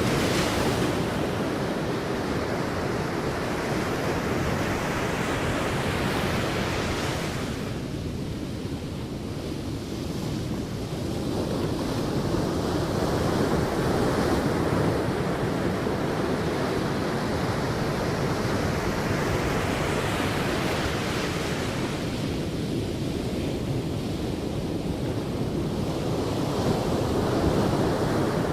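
Sea waves breaking on a beach and washing up the shore: a constant surf hiss that swells with each breaking wave, roughly every six or seven seconds.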